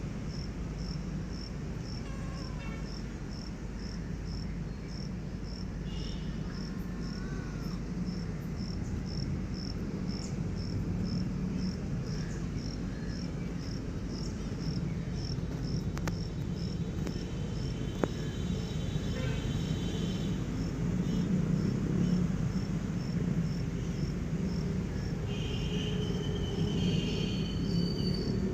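Cricket chirping steadily, a high, even chirp about twice a second, over a low background rumble.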